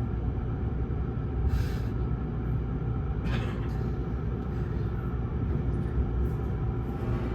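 Interior of a 681 series electric train car: a steady low rumble, with two short hisses about one and a half and three and a half seconds in.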